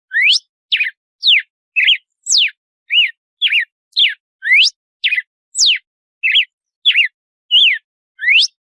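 Red-cowled cardinal (galo-de-campina) singing an 'açoite' song: a quick, unbroken run of short, clear whistled notes, about two a second. Some notes sweep up, some sweep down, and some rise and fall.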